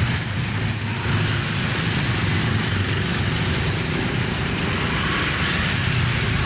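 Dense road traffic passing close by: a steady drone of heavy vehicle engines with tyre noise over it.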